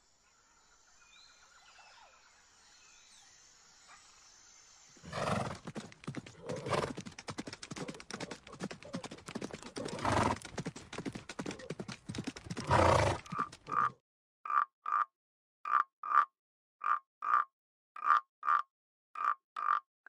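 Faint outdoor background at first, then horses neighing and whinnying over steady noise, with the loudest calls about 10 and 13 seconds in. From about 14 seconds a tree frog calls in short, evenly spaced croaks, about two a second and often in pairs.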